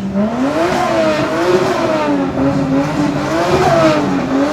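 Honda S2000 CR's four-cylinder engine revving, its pitch rising and falling several times.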